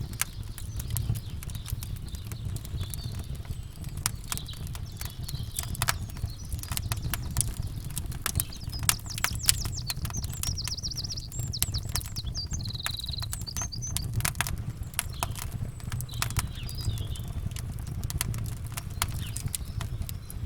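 Campfire crackling with many irregular pops and snaps over a steady low rumble, while birds chirp in short trills a couple of times near the middle.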